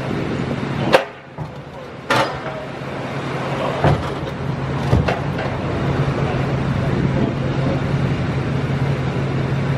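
A vehicle engine running with a steady low hum, broken by four sharp metallic clunks in the first five seconds.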